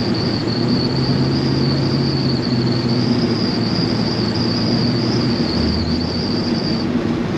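Chevy C-10 pickup driving, heard inside the cab: steady engine and road noise with a high whistle in the cab that stops near the end. The engine note drops lower about five and a half seconds in.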